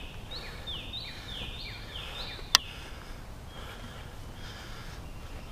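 A bird calling: about five downslurred notes, roughly two a second, each dropping from high to lower pitch, over a steady low rumble. A single sharp click about two and a half seconds in.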